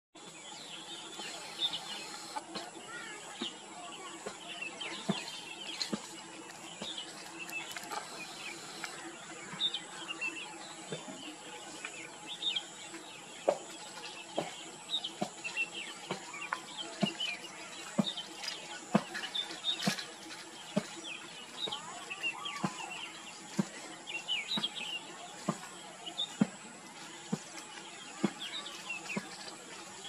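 Small birds chirping: many short, high chirps scattered throughout over a steady background hiss, with frequent sharp clicks.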